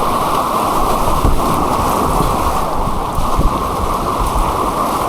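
Turbulent white water of an artificial course rushing steadily and loudly around a kayak, heard muffled through an action camera.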